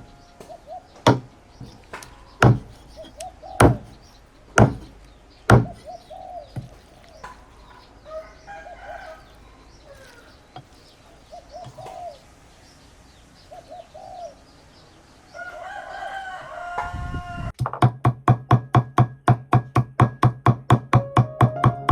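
Chickens clucking and calling in a series of short calls, after a few loud knocks about a second apart in the first seconds. Near the end, music with a fast, even beat comes in.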